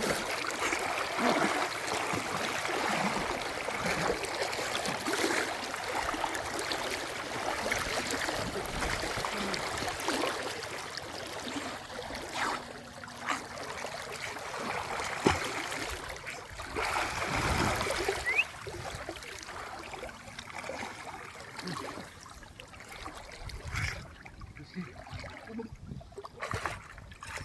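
Running water trickling and splashing, with a few sharp knocks, growing quieter over the last few seconds.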